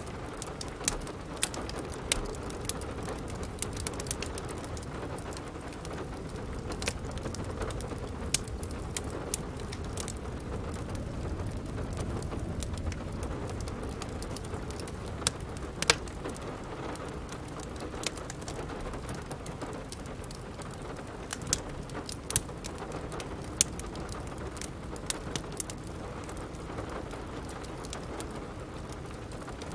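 Steady rain with the crackle of a wood fire in a fireplace: sharp, irregular pops and snaps scattered over the even hiss of the rain.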